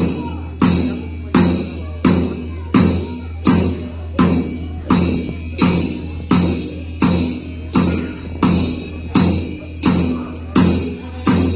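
Ritual dance music: a drum and ringing percussion struck together in a steady, even beat, about three strikes every two seconds.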